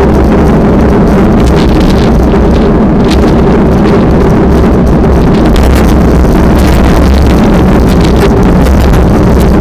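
Strong wind blasting the microphone: a loud, steady rumble with no breaks.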